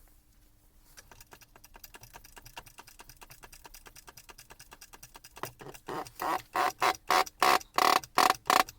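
Rapid light metallic clicking, then about halfway through loud ringing strikes on metal, about three a second.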